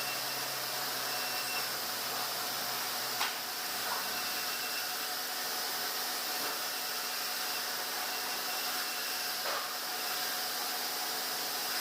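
Sawmill machinery running with a steady, hissing noise. A low hum stops about three seconds in, at the moment of a single sharp knock, and there is a fainter knock near ten seconds.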